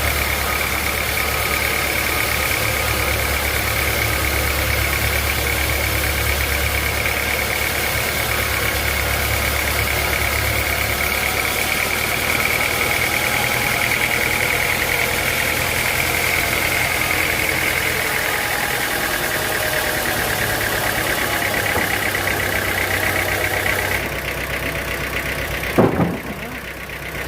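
Sawmill machinery running steadily: a low engine hum under a steady high whine. The sound changes abruptly near the end, with a brief swooping tone.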